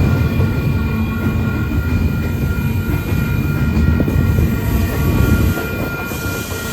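Freight train rolling past, a steady rumble of cars on the rails with a thin, steady high ringing over it.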